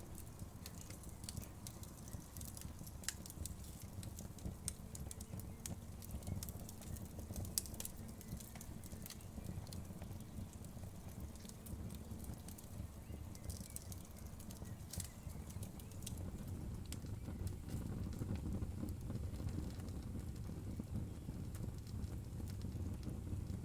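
Wood fire crackling, with irregular sharp pops and snaps over a steady low rumble of the flames; the pops are thicker in the first half.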